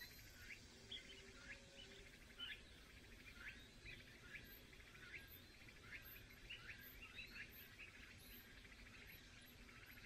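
Faint chirping of small birds: short rising notes repeated one or two a second over a low background hiss.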